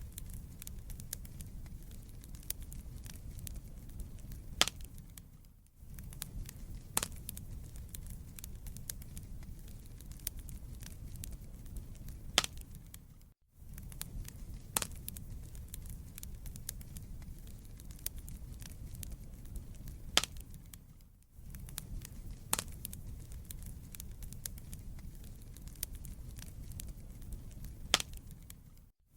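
Wood fire burning in a fireplace: a steady low rumble with scattered sharp crackles and pops. The sound fades out briefly about every eight seconds.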